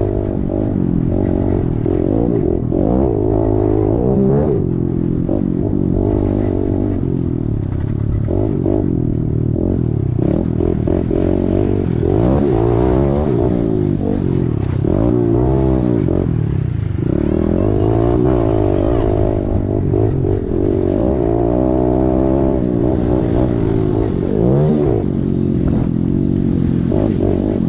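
Kawasaki KLX110's small single-cylinder four-stroke engine being ridden hard, revving up and falling off again and again as the throttle is opened and closed, heard up close from an onboard GoPro.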